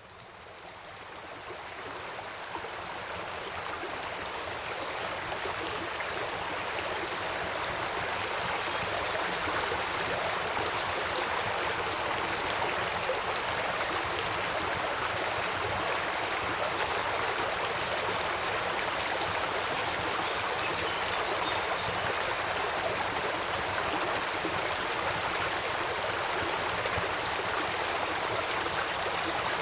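Steady rush of a flowing river or stream, fading up over the first few seconds. From about halfway in, a faint, short, high chirp repeats a little more than once a second.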